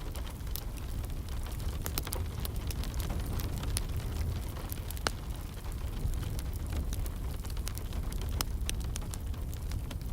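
Wood fire crackling, with irregular sharp pops, over a steady hiss of rain and a low rumble.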